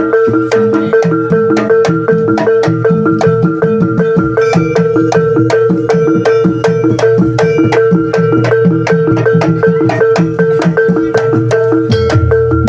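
Jaranan gamelan accompaniment: tuned metal percussion struck in a fast, even rhythm of about four strokes a second over a steady held tone, with drum strokes underneath. A heavier low drum comes in near the end.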